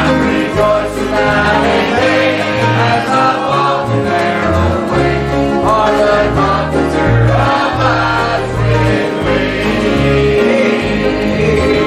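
Congregation or choir singing a gospel hymn with instrumental accompaniment and a steady bass line.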